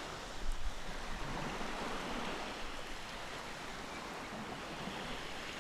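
Steady, even rushing background noise, like a soft wash of water or wind, with no distinct events.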